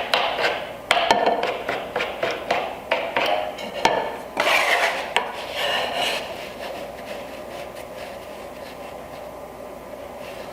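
Wooden boards being handled and set into a wooden dovetail jig: a run of knocks, clicks and sliding rubs of wood on wood for about six seconds, then it goes quiet.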